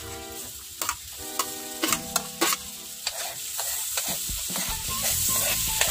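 Chopped garlic sizzling in hot melted margarine in a frying pan as a metal spoon scrapes it off a plate and stirs it, with clicks of spoon on plate and pan. The sizzle grows louder about halfway through.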